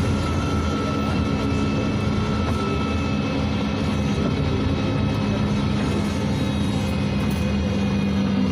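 Cabin noise of a NefAZ 5299 city bus, its Cummins ISBe diesel engine running at a steady pitch with a steady drivetrain whine over it.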